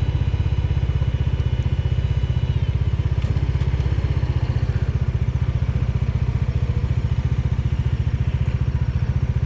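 Bajaj Dominar 400's single-cylinder engine idling, a steady run of rapid, even low pulses. A faint high whine fades out about three seconds in.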